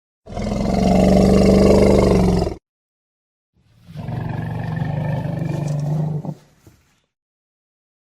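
Elephant vocalising: two long, low calls with a short silence between them, the first louder than the second.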